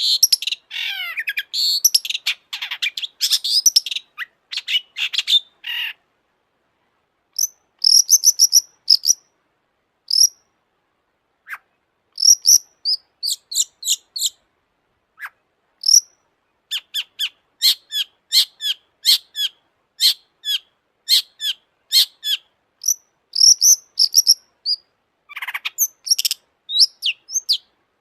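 Long-tailed shrike singing: a fast, jumbled warble for the first few seconds, then, after a short pause, long runs of sharp, short high notes repeated in quick succession.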